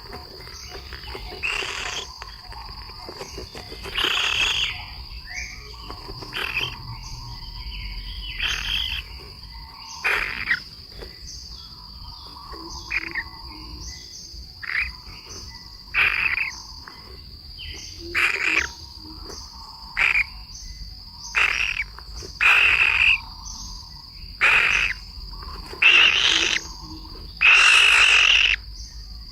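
Outdoor animal chorus: a steady high insect whine runs throughout, with short, buzzy animal calls repeated every second or two that grow louder and longer toward the end.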